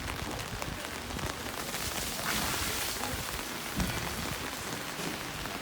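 Steady rain falling, a dense hiss of drops with many individual spatters, growing briefly louder a little over two seconds in.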